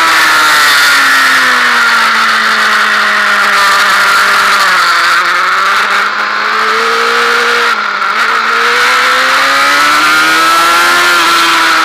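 Honda Fireblade inline-four sportbike engine heard onboard at track speed, with wind rushing on the microphone. The engine note falls as the bike slows for a corner, breaks briefly about eight seconds in, then rises again as it accelerates hard out of the bend.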